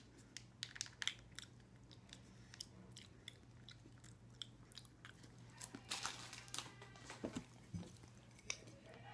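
Person chewing a bite of cheese: faint, irregular mouth clicks and smacks, a little louder and denser about six seconds in.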